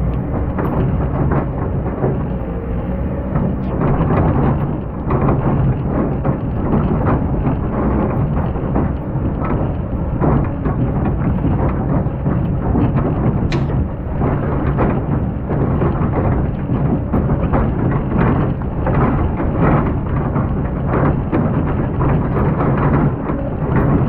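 Excavator engine running under load while the bucket grinds and scrapes through hard, compacted old sand, a continuous crunching rumble.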